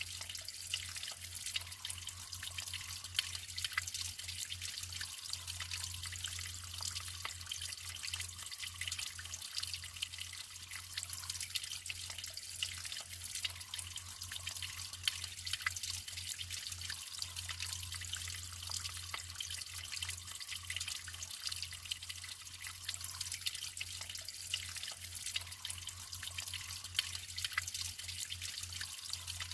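Natural running water trickling and splashing steadily, full of small crisp drips and spatters.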